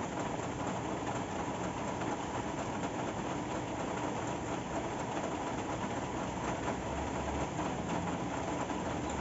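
Steady rain falling, an even hiss of many drops with no break.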